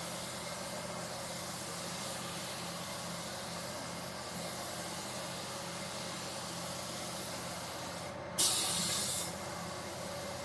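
Spray gun hissing steadily as it applies primer to a car body, with a short, louder blast of air a little over eight seconds in.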